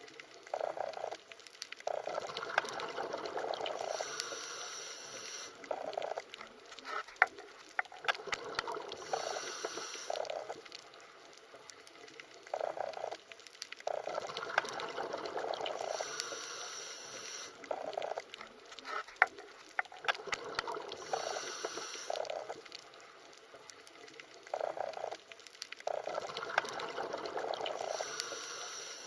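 Underwater ambience: bubbling, gurgling water that swells for a few seconds and falls back, again and again, with scattered sharp clicks. The same pattern repeats about every twelve seconds.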